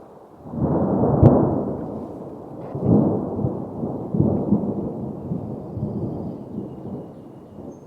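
Thunder: a sharp crack about a second in, then a long rolling rumble that swells again about three seconds in and slowly dies away.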